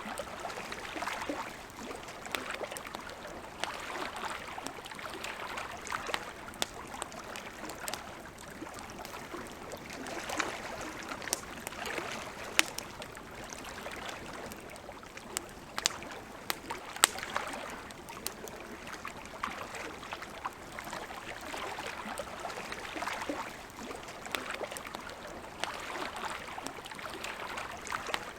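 Wood campfire crackling, with frequent sharp pops and snaps, over a soft wash of lake water lapping that swells and fades every few seconds.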